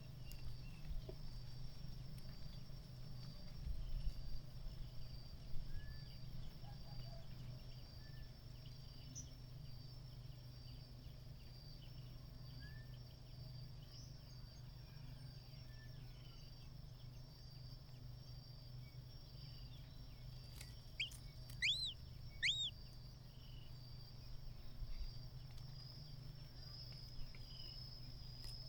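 Faint outdoor ambience: a steady high-pitched insect trill with a low hum underneath. A few short bird chirps come in a cluster about three-quarters of the way through.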